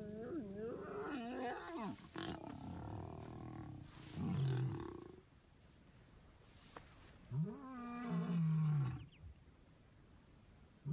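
Lion vocalising: a loud, low call about four seconds in, then a longer call about seven and a half seconds in that rises and then falls in pitch.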